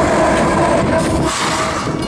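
Rear distributed-power GE C45ACCTE (Evolution Series) diesel locomotive passing close by: engine and steel wheels on the rails, with a steady tone over the rumble. About a second and a quarter in the tone stops and the sound eases off slightly as the unit goes past.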